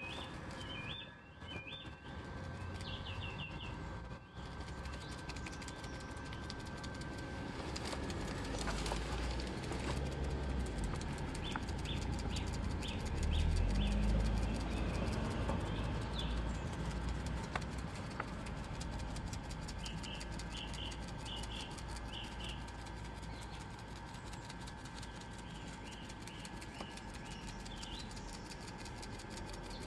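Small birds chirping in short clusters of quick high notes, several times over, above a low rumble that swells to its loudest about halfway through and then eases off.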